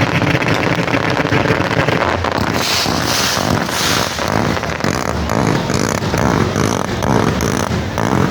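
A huge bonfire burning with a loud, steady roar and many crackles and pops, with two louder hissing surges around three and four seconds in.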